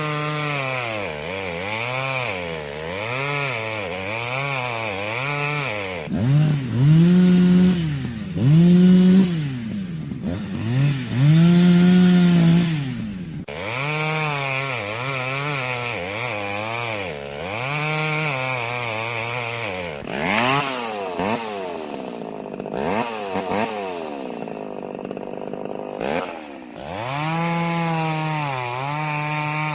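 Chainsaw engine revved up and down over and over, about once a second. It runs louder and higher between about a quarter and nearly halfway through, and drops to a lower, uneven running for a few seconds past the middle before the steady revving resumes.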